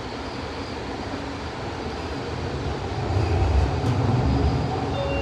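VTA light rail train running, heard from inside the car: a steady rumble that grows louder about three seconds in.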